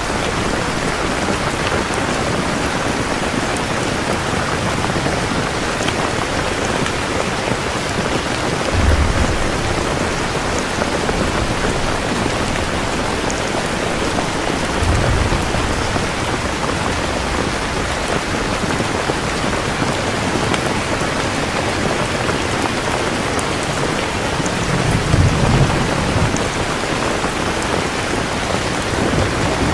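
Steady heavy rain falling, with low rumbles of distant thunder about 9 s and 15 s in and a longer roll about 25 s in.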